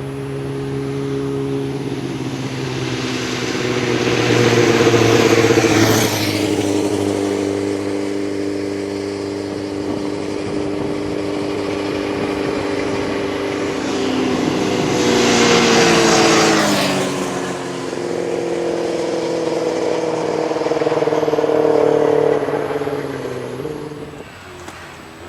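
Racing motorcycles at speed, several engines heard at once; two bikes pass close, each rising to a peak and then dropping sharply in pitch as it goes by, about six seconds in and again around sixteen seconds.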